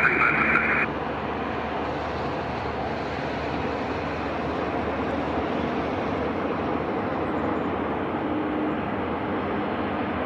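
Embraer E175 regional jet's General Electric CF34 turbofans running, a steady even rush of jet noise. A tinny air-traffic-control radio transmission cuts off within the first second.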